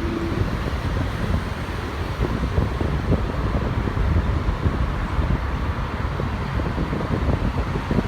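Wind buffeting the microphone over a steady rushing noise, with an uneven low rumble throughout.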